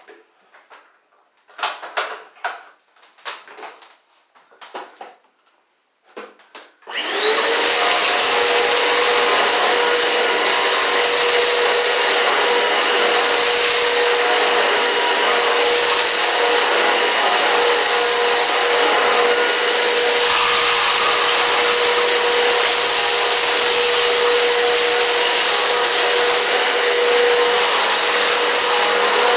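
A few scattered clicks and knocks, then about seven seconds in a Eureka PowerSpeed vacuum cleaner switches on, its motor spinning up and settling into a loud, steady run with a high whine over a lower hum.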